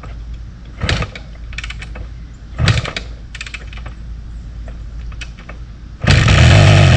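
Kawasaki KS125's two-stroke single being kicked over: short sputtering bursts about one second and near three seconds in, then about six seconds in it fires and runs loudly for a moment. The bike has sat for decades and will barely run, firing only briefly.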